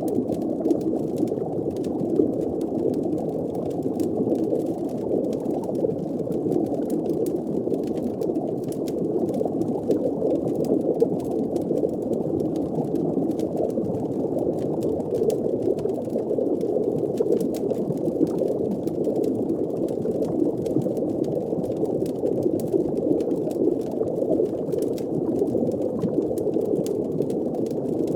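Steady muffled underwater ambience: a low, even bubbling wash of water, with faint scattered crackles over it.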